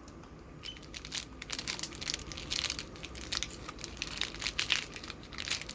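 Instant ramen soup-base sachet crinkling as it is opened and emptied, with a run of irregular crackles.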